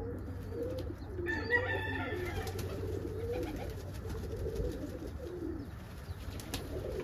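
Domestic pigeons cooing, several low wavering coos overlapping one another.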